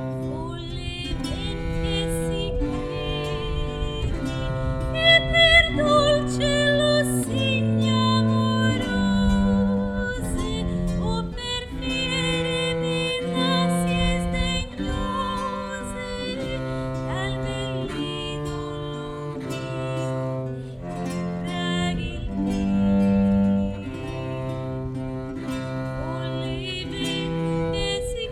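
Early Baroque Italian song performed live: a female voice singing over a plucked string instrument and a low bowed string bass line that moves in steady steps.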